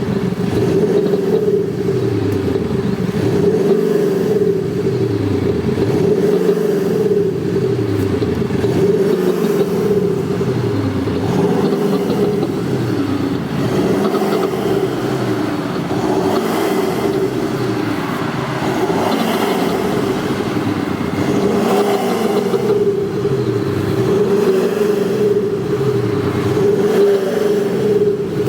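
A BMW 220d diesel with an active sound exhaust system: the exhaust-mounted sound generator plays a synthetic engine note over the diesel. The pitch rises and falls again and again, about every two seconds, as the engine is revved, over a steady hum.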